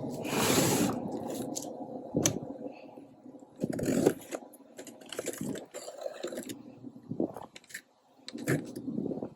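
Scrapes, clicks and knocks of metal parts being handled during a furnace blower-motor swap. A long scrape comes in the first second, followed by scattered knocks, the loudest about four seconds in.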